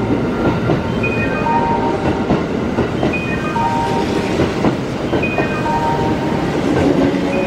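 Kintetsu limited express train rolling into the platform, its wheels clattering over the rail joints with a steady rumble. Over it, a short falling run of electronic chime tones repeats about every two seconds.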